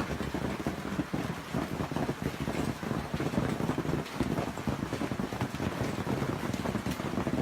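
Storm noise: a dense, steady patter of falling hail or rain, with wind buffeting the microphone.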